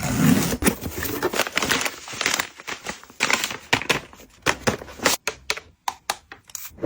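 Packaging being handled and opened: crinkling and rustling of paper or plastic wrap, broken up by many sharp clicks and taps.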